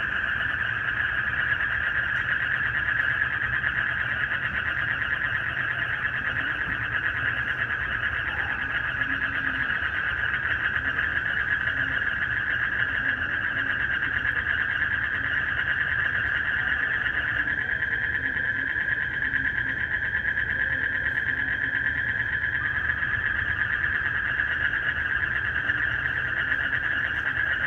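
Night chorus of crickets and frogs: a dense, steady high trill, with low frog calls repeating every second or two beneath it. A second, lower trill joins for about five seconds past the middle.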